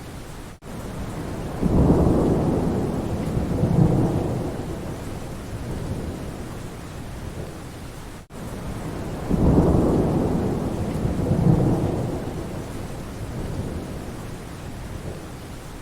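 Steady rain in a forest, with rolling thunder that swells and fades twice, each roll lasting several seconds. The sound cuts out for an instant twice.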